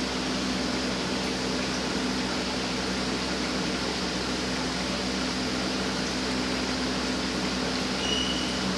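Steady machine hum with an even hiss, as from a small motor or pump running without change; a brief high tone sounds near the end.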